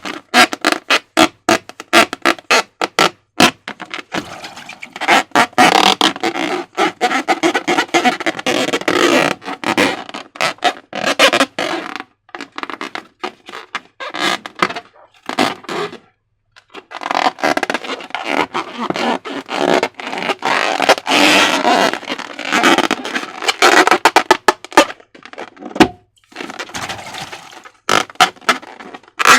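Slime being squished and worked by hand, giving a dense run of sharp, irregular clicks and crackles. Twice the clicking thickens into longer wet squelching stretches.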